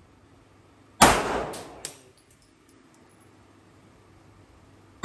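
A gunshot about a second in, dying away over about a second, followed by a couple of small sharp clinks; a second gunshot comes right at the end.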